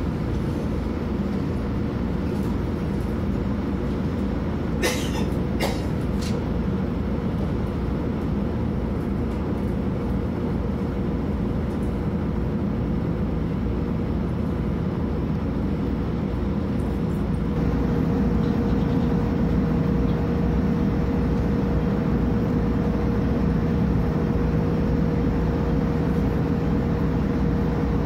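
Onboard running noise of a JR Hokkaido H100 series diesel-electric railcar: a steady low rumble of the train moving along the track, with a few sharp clicks about five seconds in. About two-thirds of the way through it grows a little louder and a steady whine sets in.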